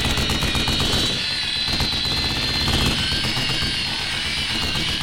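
A motor running with a rapid, even pulsing over a steady high whine.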